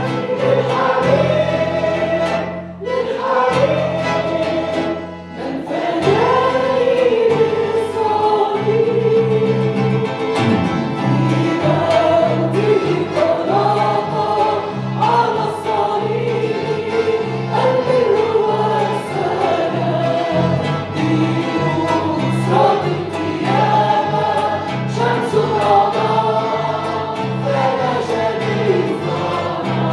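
Christian worship music: voices singing an Arabic hymn over steady instrumental accompaniment, with two short breaks in the music about three and five seconds in.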